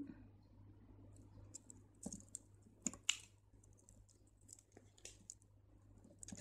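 Faint, scattered clicks and ticks of crystal beads knocking together as they are handled and threaded onto beading line.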